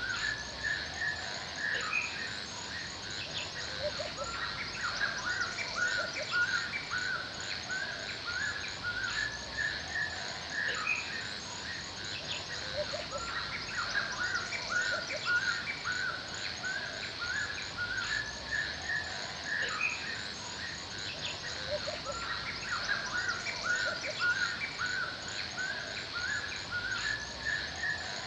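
Forest ambience: several birds chirping and singing over and over without a break. Above them runs a steady, high, evenly pulsed chirring.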